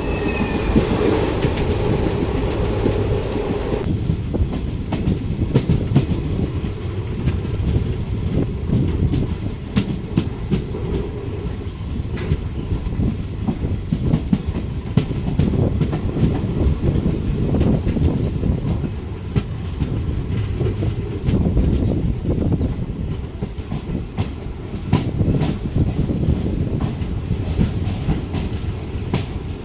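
Passenger train running between stations, heard from on board a sleeper coach: a steady low rumble of the carriage, with the wheels clicking irregularly over rail joints.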